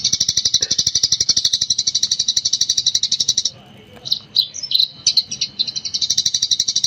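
Eurasian tree sparrow chattering in a fast, unbroken run of high chirps, the rapid 'gecor' style. About halfway through it breaks into a few separate chirps, then the rapid run starts again near the end.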